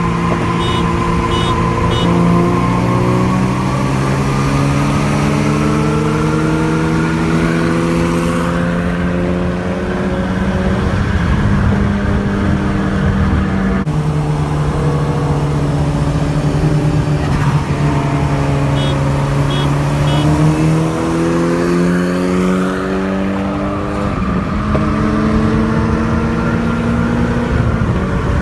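Car engine running under steady load, its pitch climbing slowly, dropping sharply about fourteen seconds in, then climbing again.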